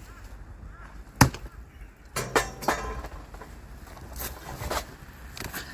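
Firewood being split by hand: a hard blow on a log about a second in, then a quick run of three sharper knocks and cracks, and a few more strikes near the end.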